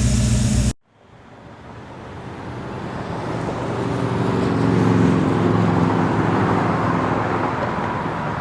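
A car engine idles close by and cuts off abruptly under a second in. Then another car's engine grows as it drives past, loudest about halfway through, and fades away.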